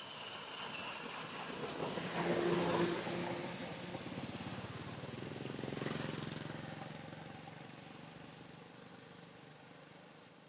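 A motorbike passing by: its engine grows louder over the first three seconds, swells again around six seconds, then fades away.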